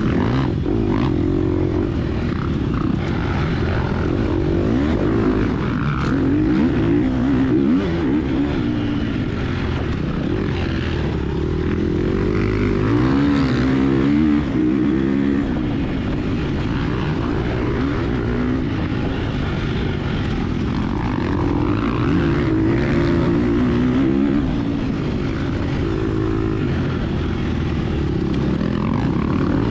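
Gas Gas EX250F four-stroke single-cylinder dirt bike engine running hard under racing load, its pitch rising and falling as the throttle opens and closes through the gears.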